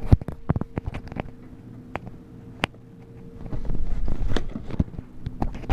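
A cardboard shipping box being opened by hand: a run of sharp clicks, crackles and taps of cardboard and packing, with a louder stretch of rustling and scraping a little before the four-second mark.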